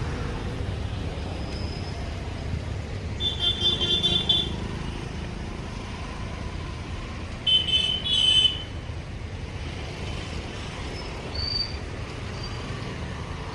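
Road traffic rumbling steadily, with a vehicle horn honking twice: once about three seconds in, then a double honk about halfway through.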